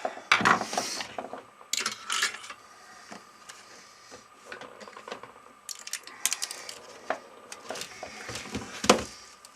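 Hands working small craft parts: irregular rustling, taps and sharp clicks, the loudest click near the end, over a faint steady hum.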